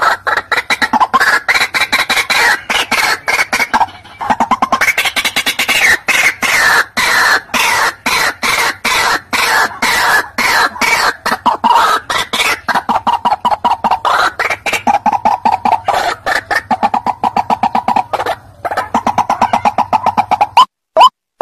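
White-breasted waterhen (ruak-ruak) calls from a bird-lure recording: a dense, rapid run of repeated croaking notes that breaks off briefly about 4 s in and again near the end. It then gives way to separate short rising notes, about three a second.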